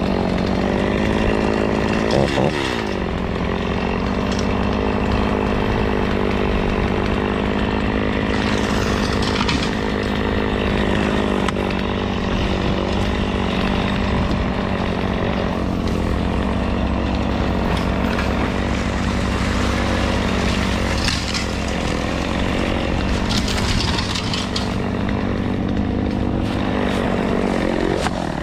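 Case C60 tractor engine running steadily at working speed, with a brief sweep in pitch about two seconds in.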